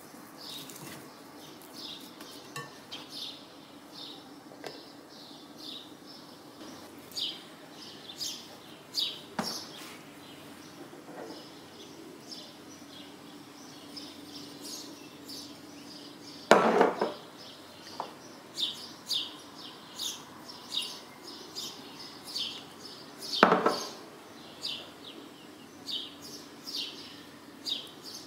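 Small birds chirping over and over, with a few clinks and knocks of glass kitchenware. Two louder clatters come just past halfway and again near the end.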